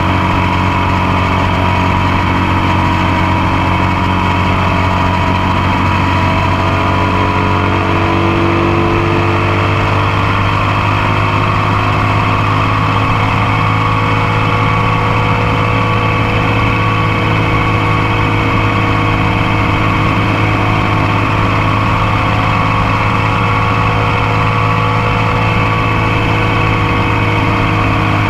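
Motorcycle engine running at a steady cruise, heard close up from the passenger foot peg, over an even rush of wind and road noise.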